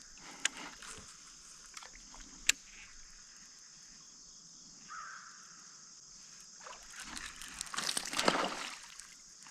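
Water sloshing and lapping against a kayak, with two sharp knocks in the first few seconds and louder splashing near the end.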